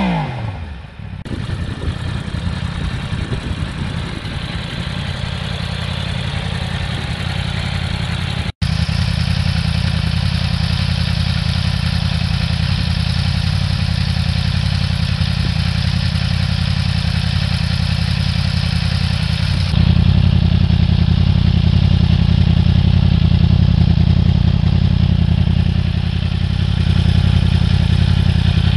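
Yamaha R1 crossplane inline-four running at a steady, low engine speed through an Akrapovic slip-on exhaust. The sound cuts off for an instant about a third of the way in, and grows louder and deeper with a sudden step about two-thirds of the way through.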